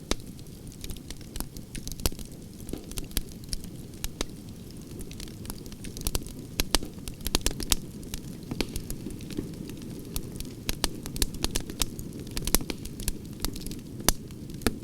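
Wood fire burning, logs crackling and popping in irregular sharp snaps over a steady low rumble of the flames.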